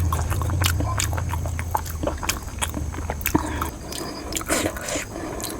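Close-miked chewing and mouth sounds, a quick irregular run of sharp wet clicks, over a low hum that fades out a little under four seconds in.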